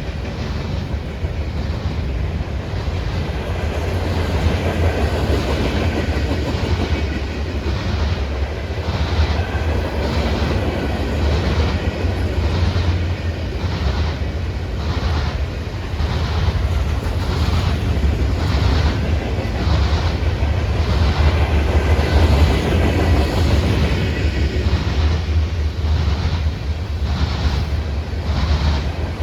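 CSX freight train rolling past: a steady low rumble, with wheels clicking in a regular run over the rail joints.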